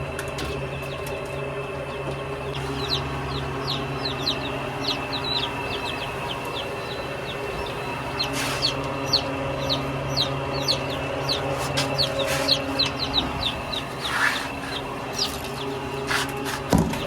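Chickens calling, with many short high peeps that slide downward in pitch, some in quick runs, over a steady low hum.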